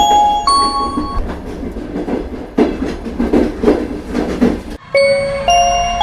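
A rising chime of clear bell-like tones, then a train running with a rhythmic clatter of wheels on rails; the chime starts again near the end after a brief cut.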